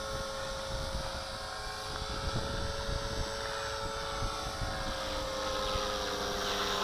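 Walkera V450D01 electric RC helicopter hovering: a steady whine from its motor and rotors over a low rumble, the pitch sagging slightly near the end.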